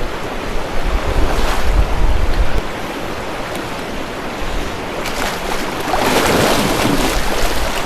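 Mountain river rushing steadily, with wind buffeting the microphone as a low rumble; the rush of water grows louder and brighter about five seconds in.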